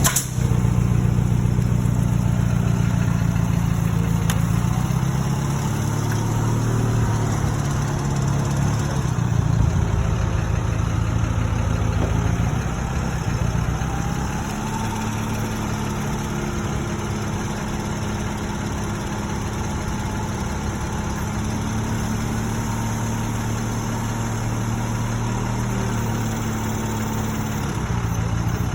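Engine running steadily with a low drone. Its note shifts about ten seconds in, and it runs a little quieter from about fourteen seconds on.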